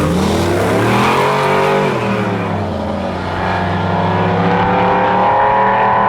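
Drag-racing engines at full throttle down the strip: the pitch climbs, drops about two seconds in at a gear change, then climbs again.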